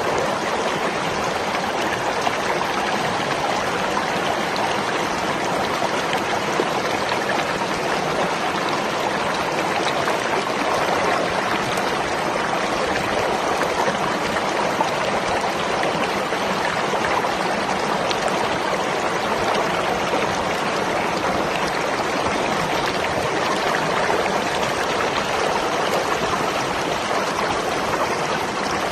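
Water flowing steadily in a stream, an even rushing with no breaks or changes.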